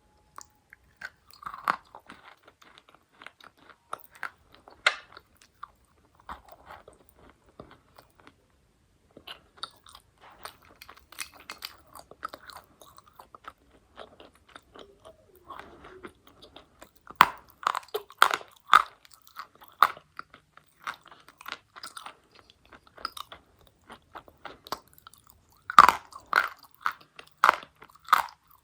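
Dry edible chalk being bitten and chewed close to the microphone: sharp, brittle crunches, with louder runs of bites about two-thirds of the way in and again near the end, and softer chewing between.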